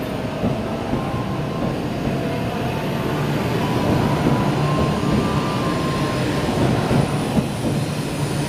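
E6 series Komachi Shinkansen train pulling out, its cars rolling past close by with a steady running noise of wheels and undercarriage.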